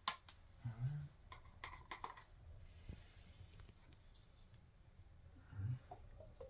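A few light clicks and clinks of small hard objects being handled, with two short low murmurs of a voice.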